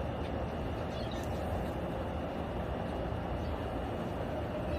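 Steady low rumbling background noise, like distant traffic or wind, with a faint short high chirp from a small bird about a second in.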